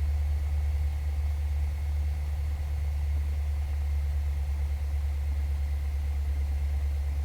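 Cessna 172's piston engine running at low taxi power, a steady low drone heard from inside the cockpit.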